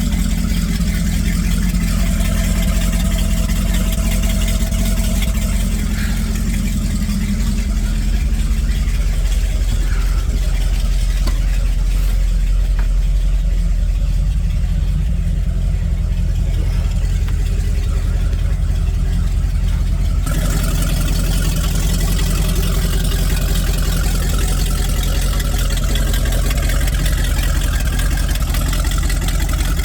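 MerCruiser 454 7.4-litre big-block V8 boat engine idling steadily, just after starting first time.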